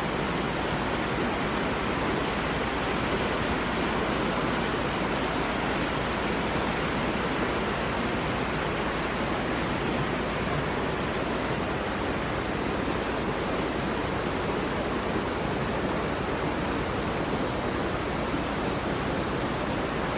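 Creek water flowing over rocks, a steady rushing.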